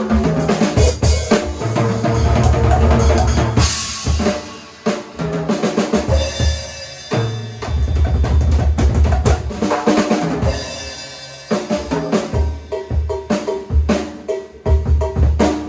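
Drum kit played in a warm-up: kick drum and snare strokes under ringing cymbals, the playing thinning out briefly a few times before picking up again.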